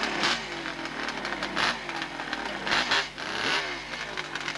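Kawasaki two-stroke triple motorcycle engine revved in a series of sharp blips, about one a second, the pitch falling back between them.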